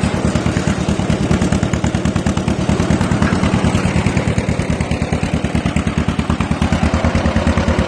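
John Deere M tractor's two-cylinder engine running with the PTO engaged: a steady, rapid popping exhaust beat.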